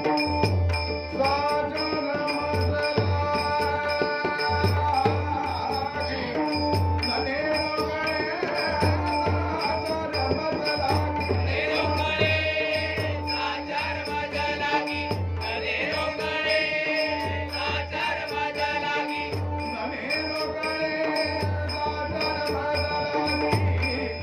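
Devotional bhajan: a singing voice with steady held instrumental tones underneath and a regular low drum beat, with some rattling percussion.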